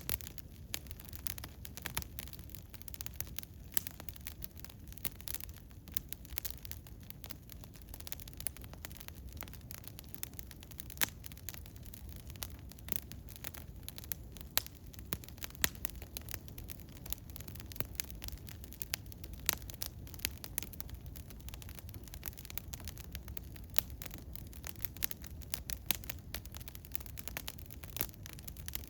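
Eastern hemlock wood fire crackling, with many irregular sharp pops and snaps over a low steady rumble.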